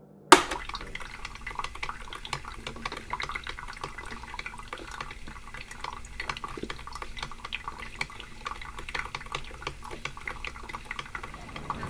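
Water trickling and dripping: many small, irregular ticks over a low steady hum, after a sharp click just at the start.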